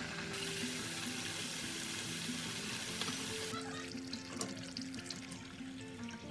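Rice-flour murukku deep-frying in hot coconut oil, a dense sizzling hiss that cuts off about three and a half seconds in and leaves light crackling. Background music plays throughout.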